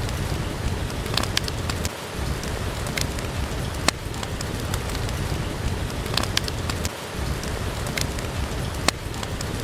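Steady rain with scattered sharp pops and crackles from a wood fire, the same pattern of pops recurring about every five seconds.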